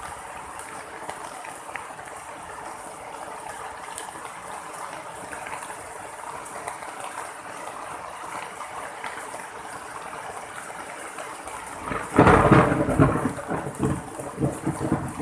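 Steady rain falling, then about twelve seconds in a sudden loud crack of thunder that goes on rumbling and crackling in uneven peaks.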